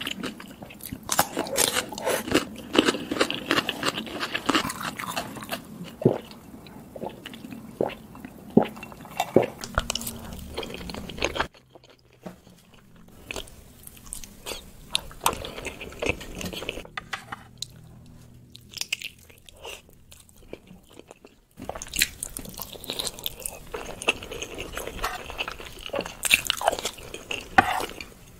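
Close-miked ASMR eating: crisp, crunchy bites and chewing of a raw cucumber piece in spicy sauce, then after a sudden change about 11 seconds in, softer, quieter mouth sounds of eating chili-sambal boiled eggs that turn louder and wetter with clicky chewing near the end.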